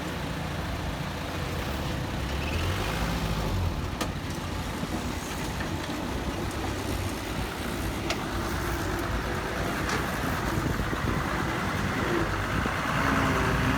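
Heavy diesel machinery engine running steadily, with a few short sharp knocks, getting a little louder near the end.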